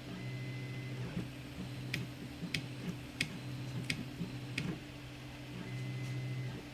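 Zonestar P802M 3D printer's stepper motors humming and whining as the print head moves, with a steady tone near the start and end. In the middle the motion turns choppy, with about five sharp ticks.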